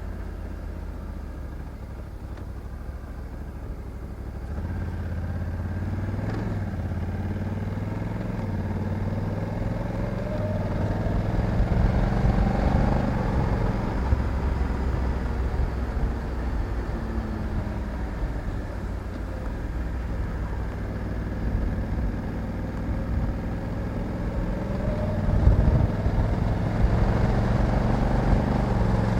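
Honda Africa Twin 1100 DCT's parallel-twin engine running under way, its note rising as it pulls and stepping down and back up with gear changes. It gets louder after a few seconds, with another rise near the end.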